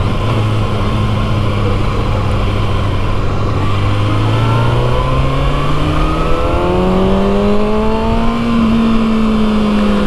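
Kawasaki Ninja ZX-6R's inline-four engine pulling steadily higher in pitch as the bike accelerates, levelling off and easing slightly near the end, over steady wind rush.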